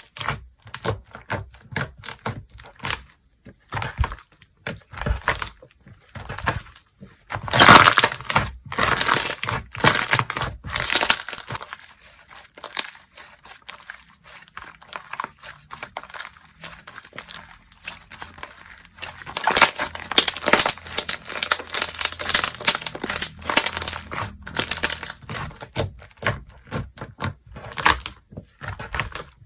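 Slime being squished, pressed and stretched by hand, giving irregular crackly popping and squelching in bursts, quieter for a while in the middle.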